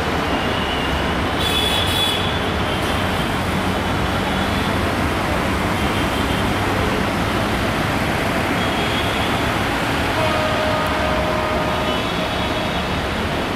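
Steady running noise of a passenger train moving away along the track, mixed with road traffic noise.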